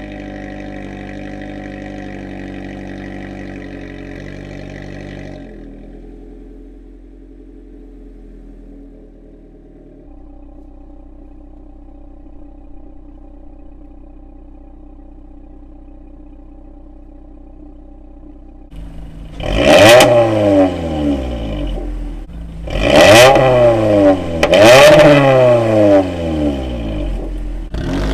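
Toyota Camry with an aftermarket exhaust idling steadily, then revved hard three or four times near the end, the pitch climbing and falling with each rev.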